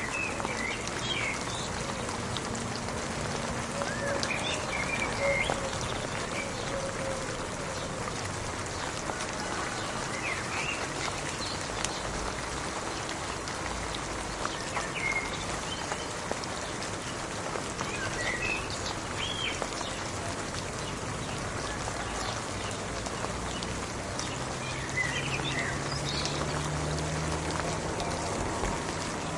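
Steady rain falling, an even hiss of drops, with short bird chirps now and then.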